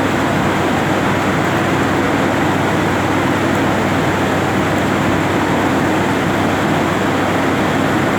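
Heavy rain falling, a loud, steady, unbroken noise.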